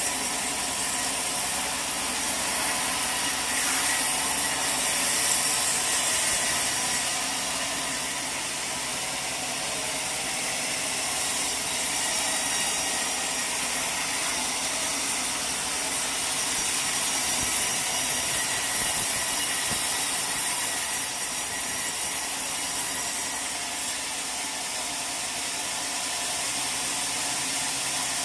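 A sawmill saw cutting through a log, running steadily with a constant whine and a lot of high hiss, swelling and easing a little.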